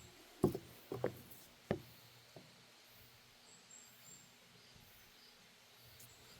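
Footsteps on a wooden deck walkway: a few dull thuds about half a second apart, which stop after about two and a half seconds. A faint high chirp follows about halfway through.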